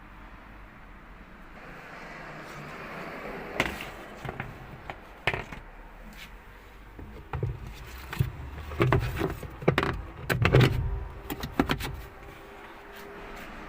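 Washing machine parts being handled and fitted during gearbox reassembly: scattered clicks and knocks of metal and plastic parts, a few at first and a busy cluster in the second half.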